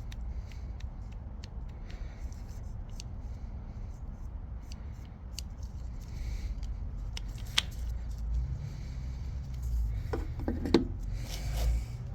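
Scattered small metallic clicks and clinks of gearbox parts and tools being handled, with one sharper click about seven and a half seconds in and a cluster of clinks near the end, over a low steady hum.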